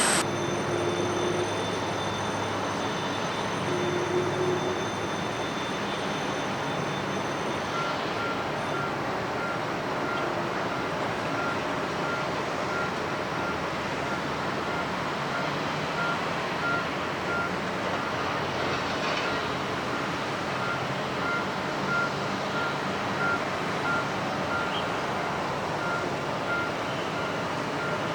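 Steady rumble of a Boeing 777-300ER and airport ground equipment on the apron, with a thin high whine that fades out about a quarter of the way in. From then on a vehicle's reversing beeper sounds about once a second.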